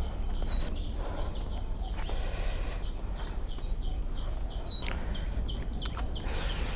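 A bird calling with a quick run of short, high repeated notes, over steady outdoor background noise.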